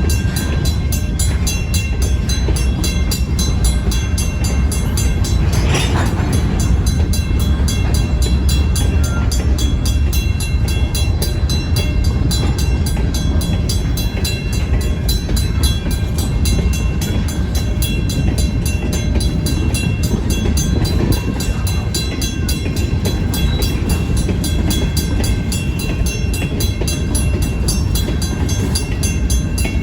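Rail cars shoved by a BNSF locomotive rolling through a grade crossing with a steady low rumble, while the crossing's WCH mechanical bell rings in a fast, even rhythm. A short sharp noise stands out about six seconds in.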